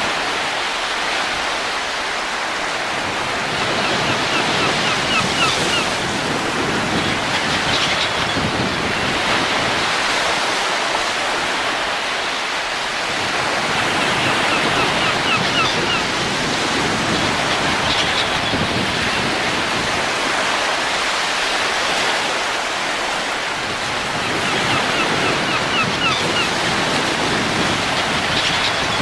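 Steady wind noise rushing and gusting, swelling and easing about every ten seconds, with a few faint high chirps in each swell.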